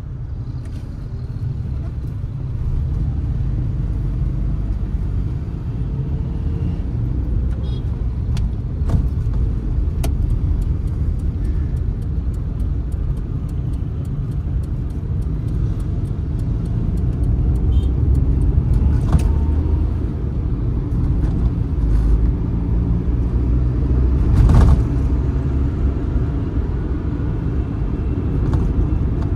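Suzuki Mehran's three-cylinder 800 cc engine and road rumble heard from inside the cabin as the car pulls away from a stop and drives on, the engine note rising as it gathers speed. A sharp knock about 25 seconds in is the loudest single sound.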